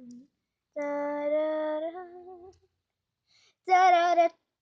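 A young female voice singing unaccompanied, holding two long notes: the first wavers as it fades, and a higher one near the end has a clear vibrato.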